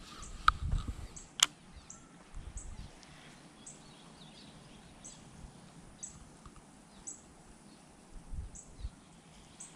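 Outdoor ambience of birds chirping, with short high chirps recurring about once a second. Two sharp clicks, the loudest sounds, come in the first second and a half, over a brief low rumble.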